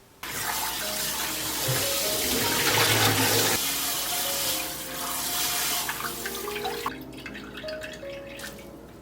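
Kitchen tap running into a sink, starting suddenly and stopping about seven seconds in, followed by a few light clicks.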